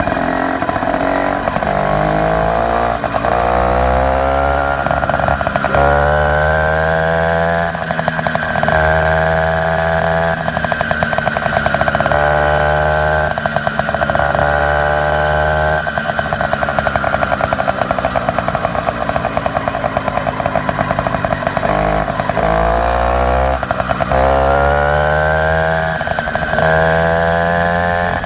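Motorized bicycle's small engine, fitted with an upgraded exhaust, revving up and easing back several times with a buzzy exhaust note.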